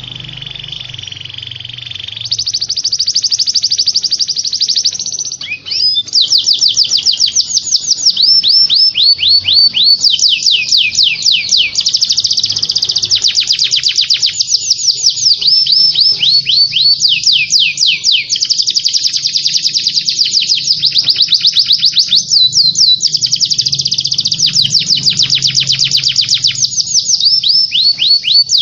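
Small songbird singing long, fast trills: runs of many quick notes, each sweeping down in pitch, repeated in rolls with brief breaks, starting about two seconds in after a softer opening phrase. A faint steady low hum lies beneath.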